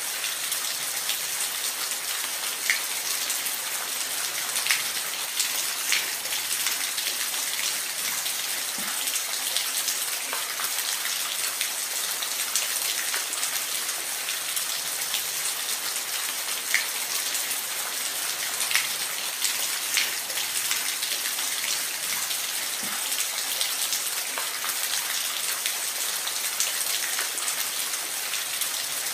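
Steady hiss of falling water, with scattered sharp drips and splashes standing out now and then.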